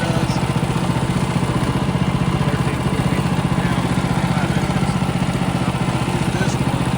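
Engine running steadily, with an even, fast pulsing beat and no change in speed.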